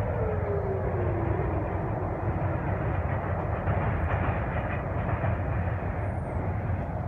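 MARC commuter train crossing a steel river bridge: a steady rumble of wheels on rails, with a whining tone that slides down in pitch and fades out in the first two seconds.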